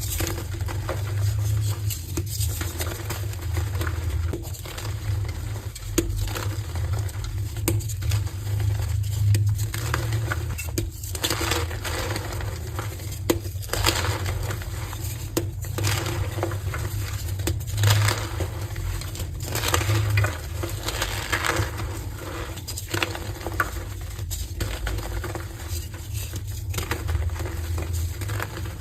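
Colourful heart-shaped pieces of gym chalk being crushed and broken apart, a steady irregular run of soft crunches and crumbling, over a steady low hum.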